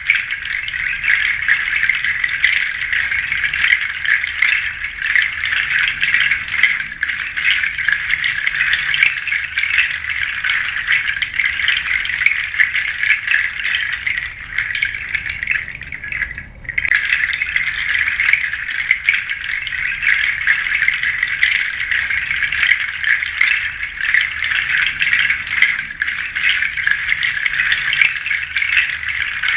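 Pangi seed shaker being shaken continuously in a dense, steady rattle, with a brief lull about sixteen seconds in.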